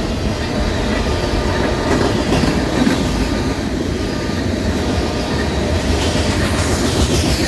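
Norfolk Southern freight train's cars rolling past at track speed, a steady noise of steel wheels running on the rails.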